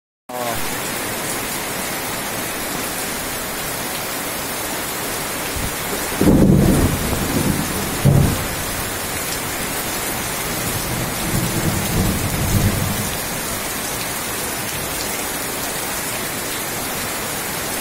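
Heavy rain falling steadily, with low rumbles of thunder: a loud one about six seconds in that peaks sharply near eight seconds, and a weaker one a few seconds later.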